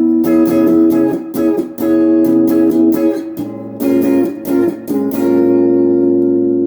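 Electric guitar on the neck pickup, played through a Crate GX15R amp with a Golden Plexi overdrive pedal, its volume knob rolled back to about 5 or 6 so the tone is nearly clean with only a hint of breakup. A run of strummed chords with short breaks, then a last chord left ringing from about five seconds in.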